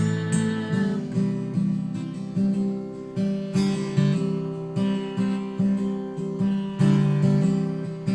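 Acoustic guitar playing, with strummed chords or picked notes struck about twice a second.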